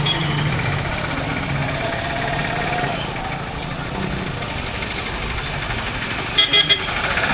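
Motorcycle engine running steadily on the move, with three short high beeps near the end.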